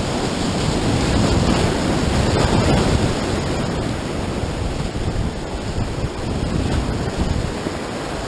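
Steady roar of churning whitewater in a river rapid.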